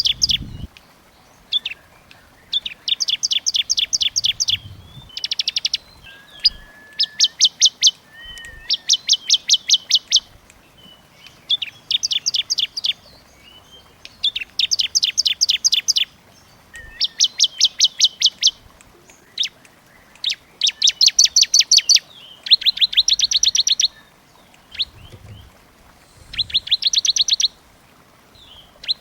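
Cililin bird singing in dense, rapid trills of fast, high, evenly repeated notes. The bouts last a second or two each and repeat about a dozen times with brief pauses between them.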